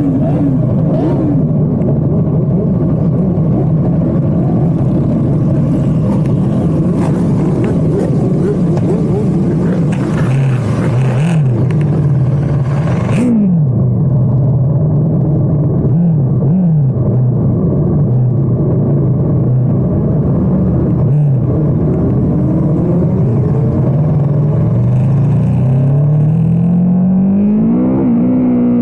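Superbike engine running under way, its pitch rising and falling again and again as the rider revs and changes gear, with a long climb in pitch near the end. A hiss over it cuts off suddenly about halfway through.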